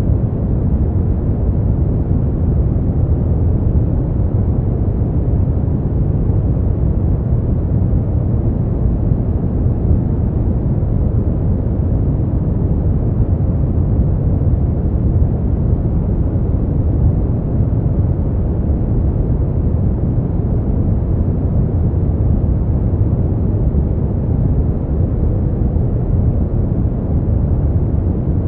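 Steady brown noise: an even, deep rumbling hiss, strongest in the low end and rolling off toward the highs, at a constant level with no changes.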